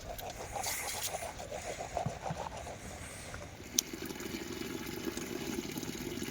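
Water trickling and splashing, turning into a steadier lower-pitched run of water about three and a half seconds in, with one sharp click just after.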